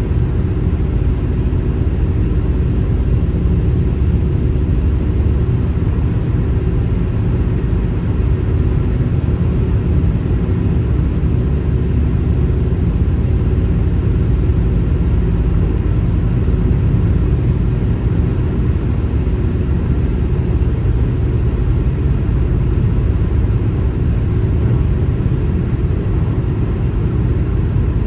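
Car driving at highway speed: a steady low rumble of tyre and engine noise that holds an even level throughout.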